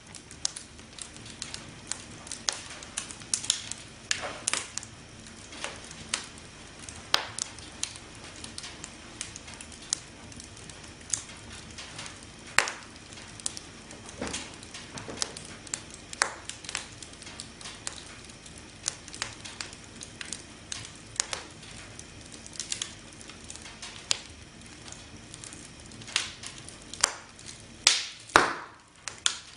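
Campfire crackling: burning wood snapping and popping at irregular intervals over a soft steady hiss, with a louder cluster of pops near the end.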